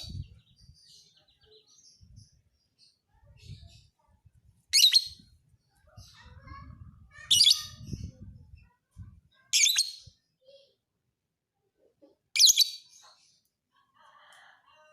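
Lovebird giving short shrill chirps: four loud ones, about two and a half seconds apart, with fainter twittering in between.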